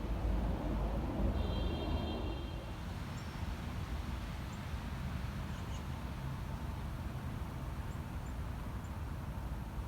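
Steady low outdoor background rumble, with a brief high tone about a second and a half in and a few faint ticks later.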